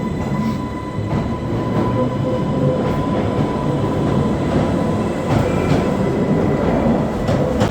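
Island Line Class 484 electric train running on the rails: a steady low rumble with a faint steady whine and occasional clicks from the wheels.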